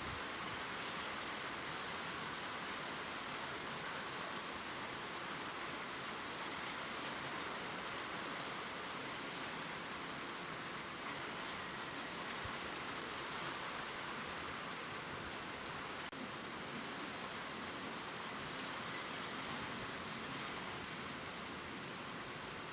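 Steady gentle rain falling on leaves, a soft even hiss with faint scattered drop ticks.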